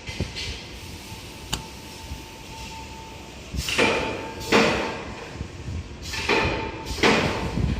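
Fruit and vegetable washing machine running: a faint steady hum with a couple of clicks, then four swishing rushes of noise a little under a second apart.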